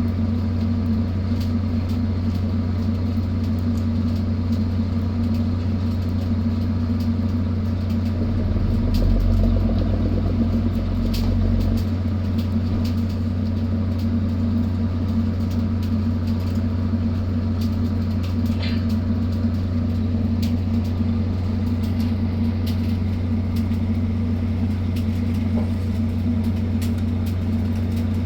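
Steady low drone of a fishing vessel's engine running, swelling briefly into a deeper rumble about a third of the way in.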